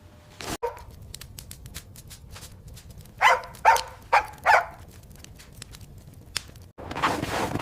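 A dog barking four times in quick succession, over faint scattered clicks; a steady rushing noise starts near the end.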